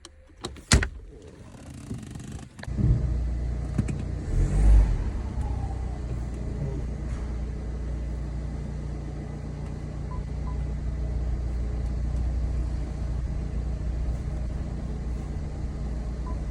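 A sharp knock about a second in, then the 2007 BMW E92's engine starts about three seconds in, revs briefly and settles into a steady idle.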